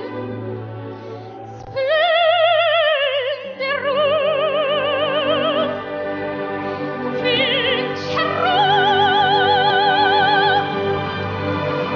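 A young girl's high soprano voice singing opera, holding long notes of about two seconds each with wide vibrato, over a steady sustained accompaniment.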